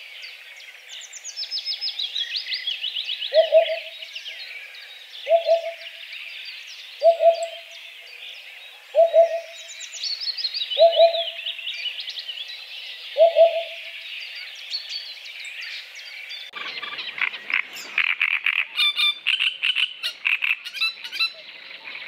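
Eurasian hoopoe giving six low hooting calls about two seconds apart, with other songbirds singing higher behind it, including two quick falling trills. About 16 seconds in, a great reed warbler takes over with its loud, harsh song of rapid repeated notes.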